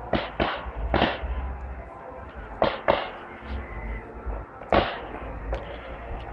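Display fireworks going off: about seven sharp bangs at uneven spacing, two or three close together near the start, another pair about halfway and a single loud one later, over a low rumble.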